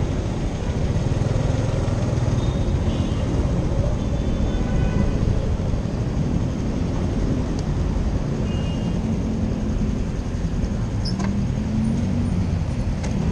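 Motorcycle engine running as the bike rolls slowly, a steady low rumble, with a faint hum rising in pitch about eleven seconds in.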